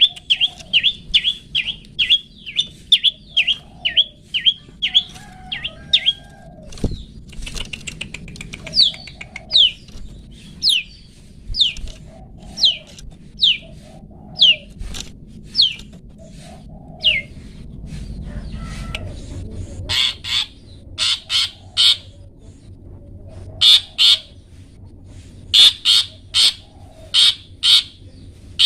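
Long-tailed shrike (cendet) singing its 'toet toet' song: repeated down-slurred whistled notes, fast at first, then spaced about a second apart. About two-thirds of the way through it switches to short harsh rasping notes in quick clusters. A single soft knock sounds about a quarter of the way in.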